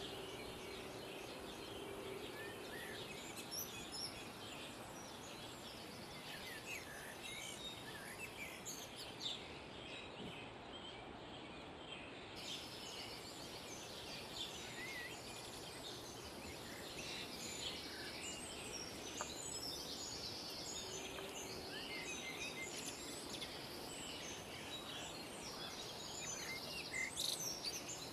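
Songbirds chirping: many short calls from several small birds over a steady background hiss.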